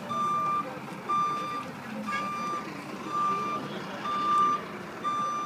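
A vehicle's reversing alarm beeping: a steady high beep about once a second, six beeps in a row.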